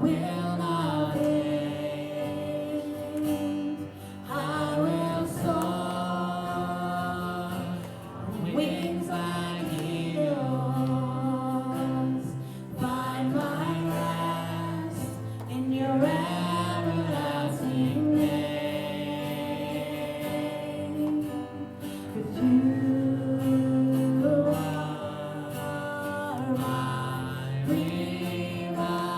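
Gospel song: voices singing long held notes, sliding between pitches, over instrumental accompaniment.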